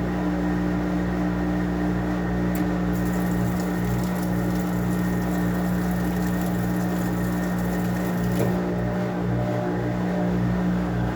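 Washing machine running with a steady motor hum. A faint hiss joins it from about two and a half seconds in until about eight and a half.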